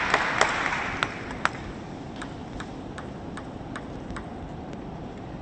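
Audience applause dying away over the first second and a half, then a table tennis ball clicking about two and a half times a second for a couple of seconds.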